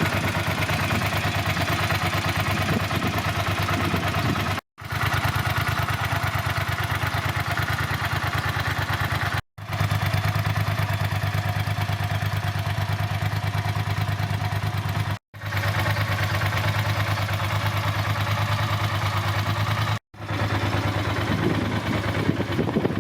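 Ducati Monster 400 S's air-cooled L-twin engine idling steadily with an even, loping beat. The sound breaks off abruptly four times, about every five seconds, and starts again at the same steady idle.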